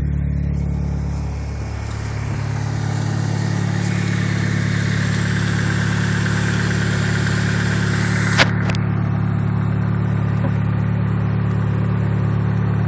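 Mitsubishi Eclipse RS four-cylinder engine idling steadily after warming up, an engine the owner says has worn piston rings. Its level dips briefly about a second and a half in, and a sharp click comes about eight seconds in.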